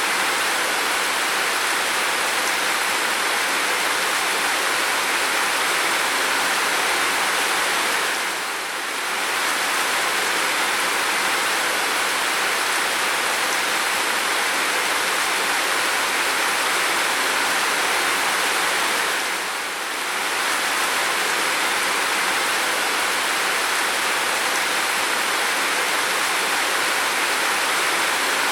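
Heavy rain pouring steadily, a dense, even hiss. It dips slightly twice, about a third and two thirds of the way through.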